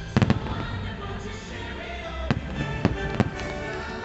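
Aerial firework shells bursting with sharp bangs over loud show music. A quick cluster of bangs comes just after the start and is the loudest; three more follow in the second half.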